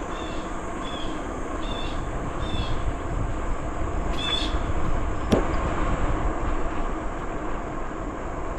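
Wind on the microphone and bicycle riding noise, a steady low rush, with short high chirps recurring about every three-quarters of a second early on and a sharp click about five seconds in.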